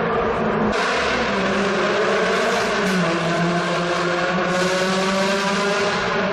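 A supercar engine accelerating hard through a tunnel, echoing off the walls. Its note climbs and steps down at gear changes, with louder surges about a second in and again past the middle.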